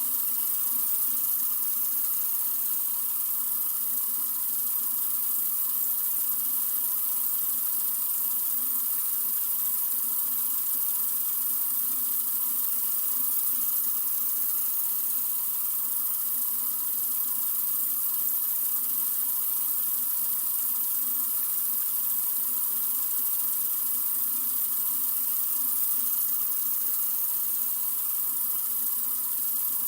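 Sink faucet running in a steady, unbroken stream: an even rush of water that is strongest in the high treble and does not change in flow.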